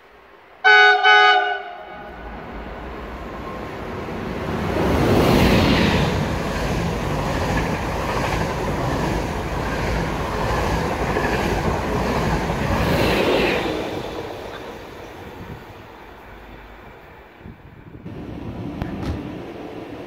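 NS double-deck intercity train sounding a short horn blast of about a second, then running along the platform. Its rumble and wheel noise build up, stay loud for several seconds, and fade away.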